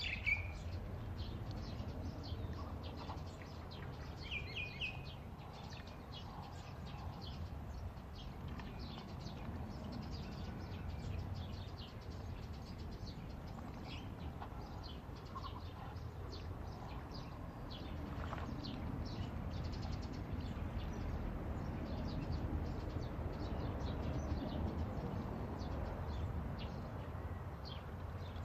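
Birds chirping briefly a couple of times in the first few seconds, over a steady low outdoor rumble with many faint small clicks and ticks throughout.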